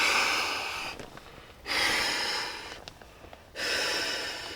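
A person blowing out forceful breaths of air in a steady rhythm, about one long puff every two seconds with a short pause between.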